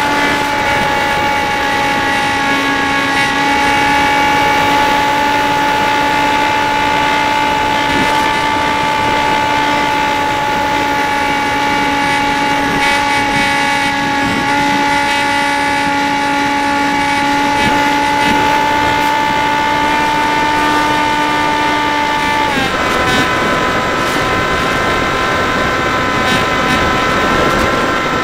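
Dynam Hawk Sky RC plane's electric motor and propeller running with a steady whine; about two-thirds of the way through, the pitch jumps higher as the throttle is pushed up.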